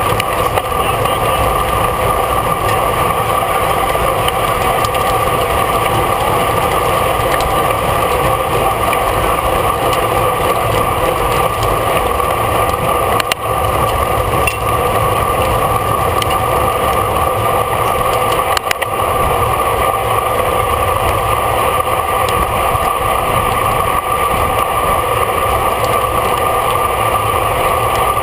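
Steady wind and road rumble on a camera riding on a racing bicycle at speed, with two brief knocks, about 13 and 18.5 seconds in.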